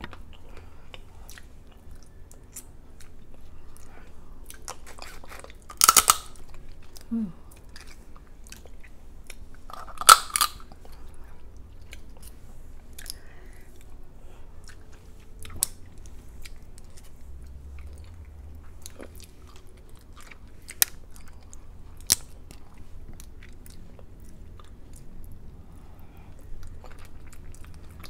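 A person eating shrimp and crab close to the microphone: steady wet chewing and mouth clicks, with two louder crunching cracks about six and ten seconds in and a couple of sharp clicks near the end.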